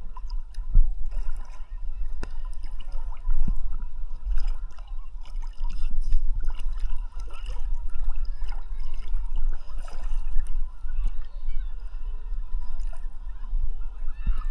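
Sea water sloshing and gurgling around a camera held at the surface by a swimmer, with a constant low rumble and many small splashes and droplet ticks.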